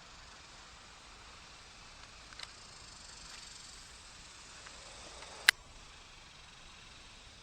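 Steady faint hiss of outdoor ambience, with a faint tick about two and a half seconds in and one sharp, loud click about five and a half seconds in.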